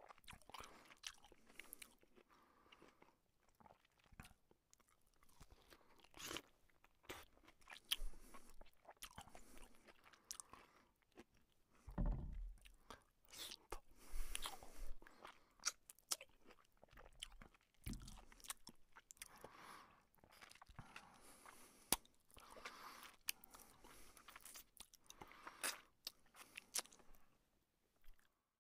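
Chewing and mouth sounds of a man eating luchi with chicken curry by hand: irregular wet smacks and clicks as he chews and takes bites.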